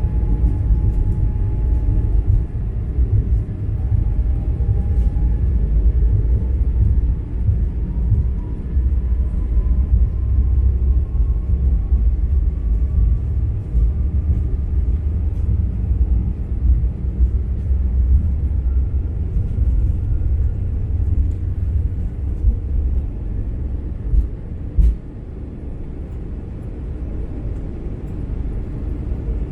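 Airbus A220-100 takeoff roll heard from inside the cabin: a heavy rumble from the runway and the Pratt & Whitney PW1500G geared turbofans at takeoff thrust, with a whine slowly rising in pitch. The rumble eases about 25 seconds in, as the jet lifts off.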